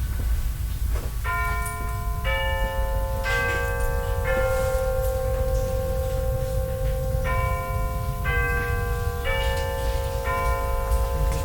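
Four-note electronic store chime, four bell-like tones about a second apart that ring on and overlap, played twice, with a pause of about two seconds between the runs. Under it, the steady low rumble of a shop interior.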